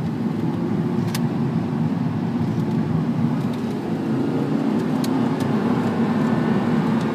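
Audi R8 sports car driving on a race track: steady engine and road noise at speed, with a couple of faint clicks.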